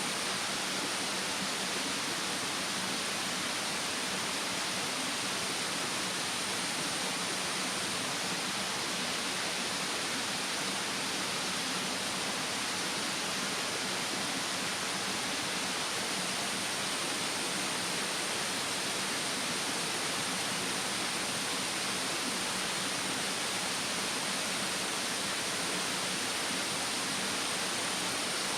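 Steady rushing of a mountain stream, with a thin, steady high-pitched tone above it.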